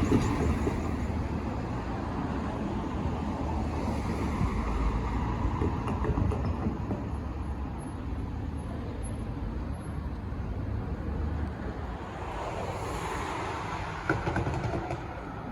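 Comeng electric suburban train running past on the rails, a steady rumble that is loudest at the start and slowly fades.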